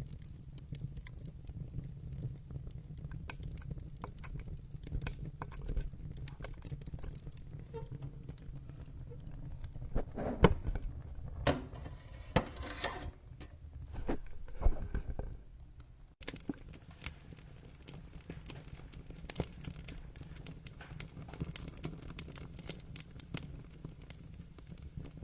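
Log fire crackling in a fireplace: a low steady rumble with scattered sharp pops, a louder flurry of pops and knocks roughly halfway through, and the low rumble dropping away suddenly about two-thirds of the way in.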